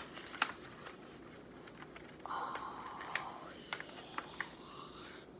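A sheet of paper being folded and creased into a paper airplane: rustling from about two seconds in, with small scattered taps and clicks.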